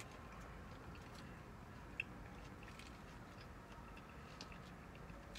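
Faint close-up chewing and biting on food, with small wet mouth clicks scattered throughout and one sharper click about two seconds in.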